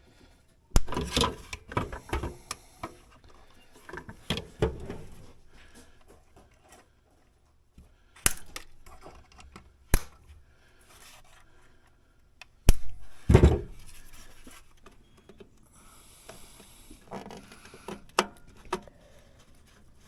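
Irregular handling noises from hand work on parts: scattered sharp clicks and knocks with short scrapes and rubs in between, the loudest knocks a little past the middle.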